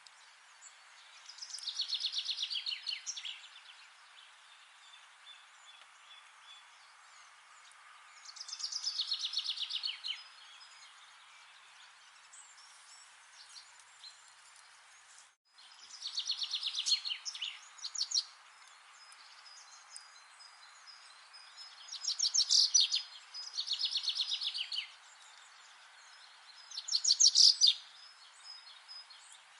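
A songbird repeating a short, fast trilled song phrase that drops in pitch, six times, with one phrase coming about every five to seven seconds and two close together near the end. Under it runs a steady low hiss of outdoor background noise, which cuts out for an instant about halfway through.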